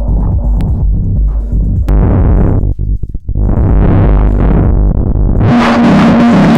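Synthesizer played through Erica Synths Black series Eurorack filter modules. The filter cutoff sweeps open and closed twice over a pulsing bass pattern, then opens wide about five and a half seconds in, giving a bright, buzzy tone with a repeating note.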